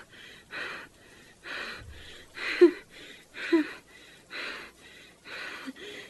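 A woman's ragged, gasping breaths, about one a second, a few with a faint catch in the voice: shaky, crying breathing from distress.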